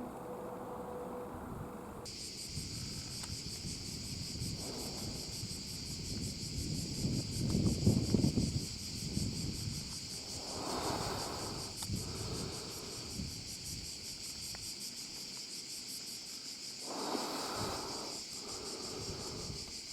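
A steady, high-pitched chorus of insects starts about two seconds in and runs on. Under it a low rushing rumble swells and fades several times, loudest about eight seconds in.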